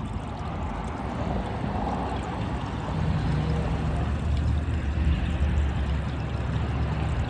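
Water gushing out of a hole drilled in the side of a full trash can and splashing steadily onto the ground. It gets louder about three seconds in.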